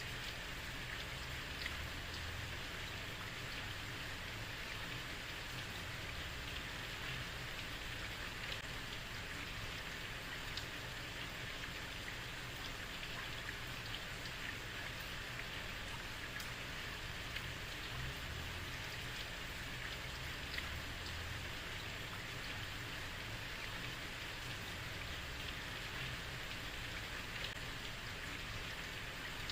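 Heavy rain falling steadily on a street, a constant hiss with scattered individual drops ticking through it and a low rumble underneath.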